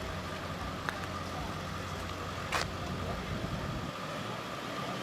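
A vehicle engine idling with a steady low rumble that fades away about four seconds in. A short sharp hiss cuts in about halfway through.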